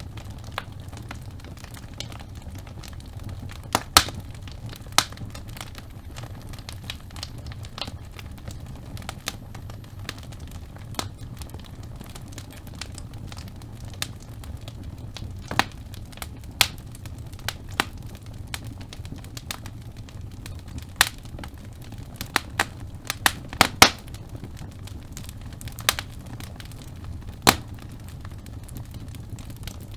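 Wood fire burning in a fireplace: a steady low rumble of flames with irregular sharp crackles and pops from the burning logs, coming thicker for a couple of seconds past the middle.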